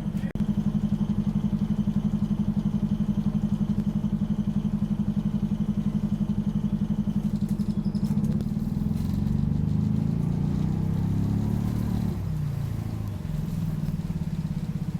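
Optare Solo bus's diesel engine heard from inside the bus, a fast, even throb that sounds like a motorbike. It runs steady, then rises in pitch from about eight seconds in and drops off sharply about twelve seconds in before settling again.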